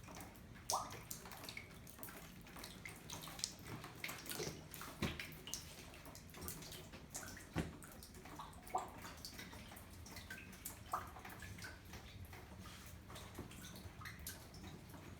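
Floodwater leaking and dripping: a steady low trickle with irregular drips and small splashes.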